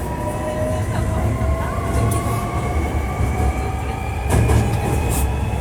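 Hankyu 1300 series EMU under way, its Toyo IGBT VVVF inverter and traction motors whining in several tones that slowly rise in pitch as the train gathers speed, over the low rumble of wheels on rail. A brief knock about four seconds in.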